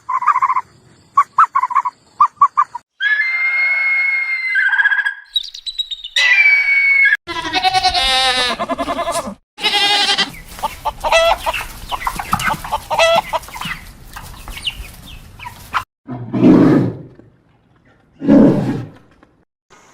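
A rapid montage of different animal calls, joined by abrupt cuts: a few short, repeated high calls, a long high call, a rising call, a dense run of calls, then two shorter, lower calls near the end.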